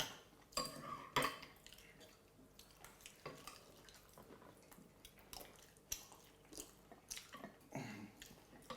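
Scattered faint clinks and taps of cutlery against plates and dishes.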